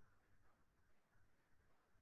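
Near silence: a pause between spoken phrases, with only faint room tone.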